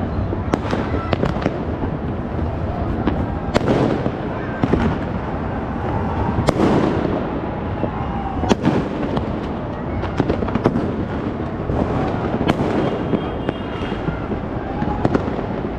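New Year fireworks and firecrackers going off across the city: a constant din of overlapping bangs and crackling, with sharper, louder bangs every second or so at irregular intervals.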